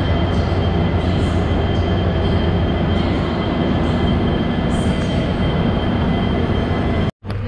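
Indian Railways train running: a loud, steady rumble with a thin high whine over it. The sound cuts out abruptly for a moment near the end.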